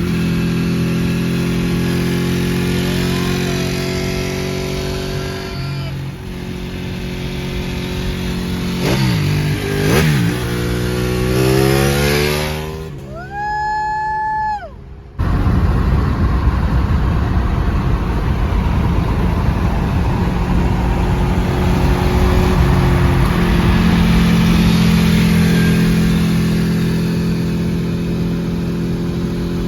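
Ducati Panigale 899's L-twin engine running while ridden, with the revs rising and falling. About halfway through the revs climb, then the engine sound breaks off for a couple of seconds before steady engine and rushing-air noise return.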